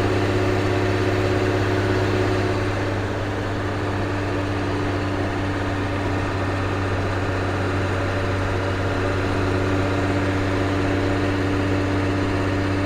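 Ford CF7000 truck's 6.6 L Brazil diesel engine running steadily while the truck drives, easing slightly a little after two seconds in.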